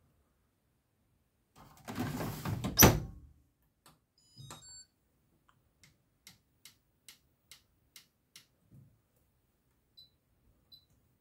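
AEG Lavamat washing machine door swung shut, ending in one loud knock about three seconds in. A short beep follows, then a row of evenly spaced clicks, about two a second, and near the end a few faint short beeps.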